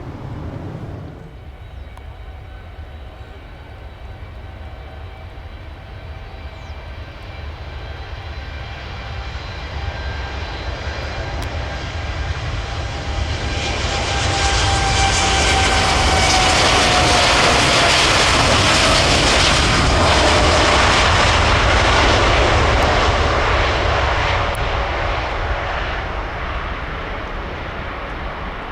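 Jet airliner's turbofan engines at takeoff power, growing louder as the aircraft approaches, passing with a whine that drops in pitch, then fading away.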